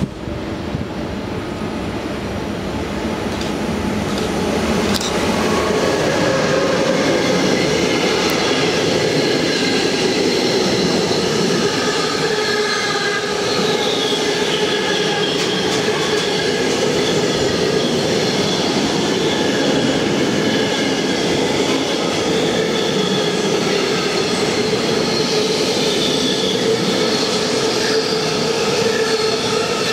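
Freight train of container and tank wagons passing close by, wheels rolling on the rails with steady high ringing squeal tones over the rumble. The sound swells over the first few seconds as the train comes alongside, then holds steady.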